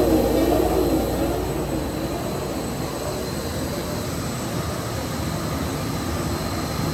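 Costa MD43 1350 wide-belt deburring machine running, a steady whir of its motors and dust-extraction fan, with a wavering tone fading out in the first second or so.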